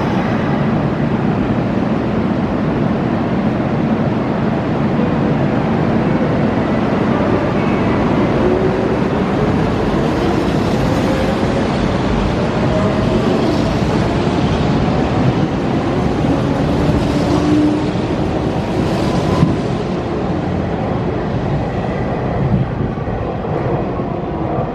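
Hanshin 8000-series electric train pulling out and accelerating past, its motors whining in a rising pitch over the steady running noise of the wheels on the rails.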